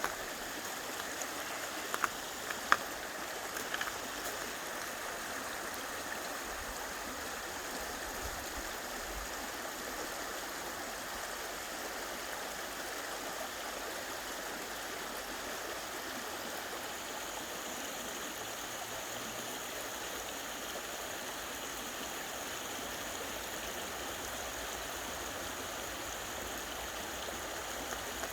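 A brook running, a steady rush of water. A few sharp clicks come about two to four seconds in.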